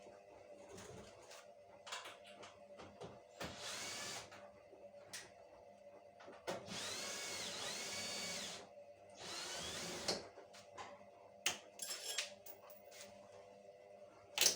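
Power drill running in three short bursts, the middle one about two seconds long, its pitch rising and falling as it speeds up and slows down. Scattered clicks and knocks come between the bursts, with a sharp knock at the end.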